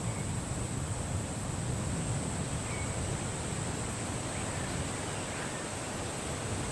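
Steady wind with a constant high hiss, and a few faint, short bird chirps scattered through it.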